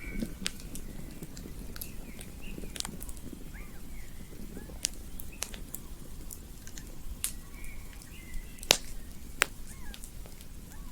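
Campfire crackling with scattered sharp pops, two louder pops late on, over the low rumble of the burning fire. Faint short chirping calls sound in the background.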